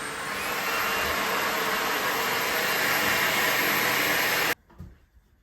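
Vacuum cleaner running, its motor speeding up just after the start with a rising whine and getting louder, then cutting off abruptly near the end.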